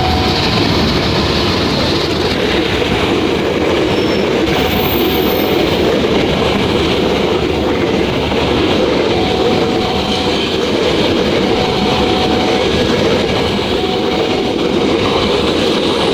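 Passenger train passing close by, its carriages rolling along the track with a steady, loud rumble of wheels on rail.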